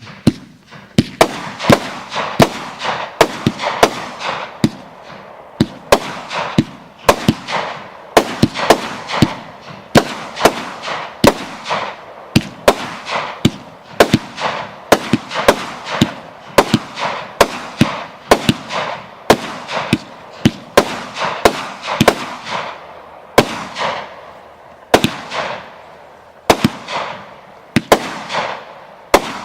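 Deco Fireworks 'Fight For Our Future' multi-shot firework cake firing: a steady run of sharp bangs, about two a second, with crackling between the reports.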